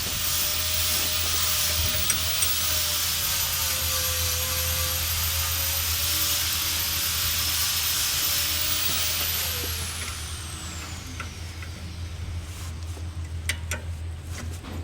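Pressurised air hissing steadily with a thin whistle, over a low hum. About ten seconds in the hiss dies away and the whistle falls in pitch as it stops.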